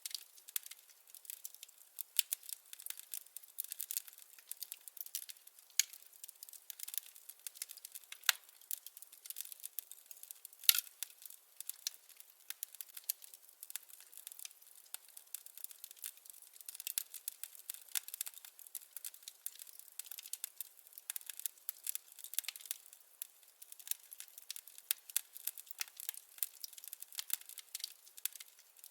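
Firewood crackling in a fireplace: a dense, irregular run of small snaps and pops, with a louder pop about eleven seconds in.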